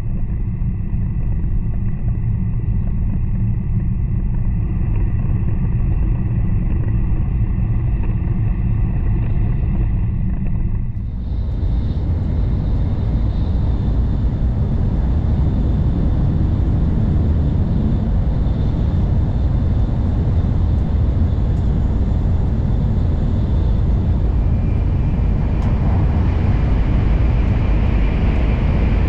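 Running noise of an N700 series Shinkansen at speed, heard from inside the car: a steady low rumble and rush. About eleven seconds in it dips briefly, then comes back brighter and hissier.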